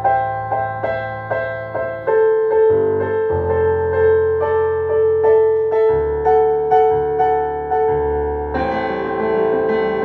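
Electronic keyboard with a piano sound playing a slow piece: notes struck about twice a second at first, then a long held note over changing bass notes, with fuller, brighter chords coming in near the end.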